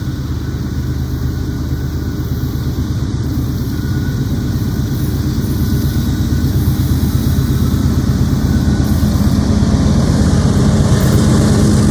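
Diesel-electric freight locomotive engines running steadily, a low, even engine sound that grows gradually louder as the train approaches. The lead unit is a Norfolk Southern AC44C6M.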